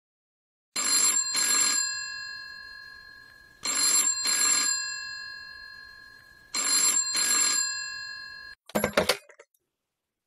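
Telephone ringing three times, each ring a double burst of a bell-like tone that fades away over a couple of seconds. A short burst of clicks comes near the end, just before the call is answered.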